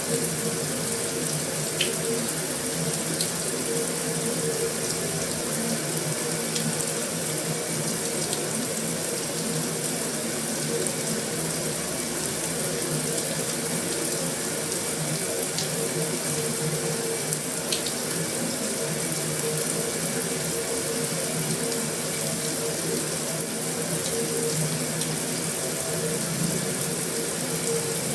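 Heavy rain falling on a metal roof: a steady, even hiss of rain with a few sharper drop ticks now and then.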